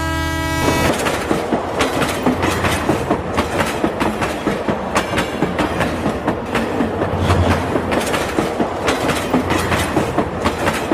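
A train: a short horn-like tone at the start, then the rapid, even clickety-clack of wheels running over rail joints.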